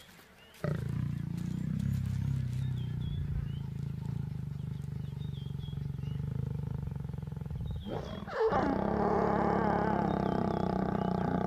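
Lions growling: a low, steady growl, then from about eight seconds in a louder snarling growl during mating.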